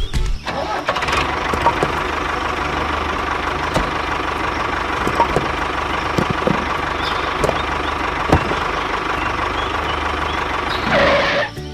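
A small engine running steadily, with a constant whine and a few sharp clicks and knocks over it.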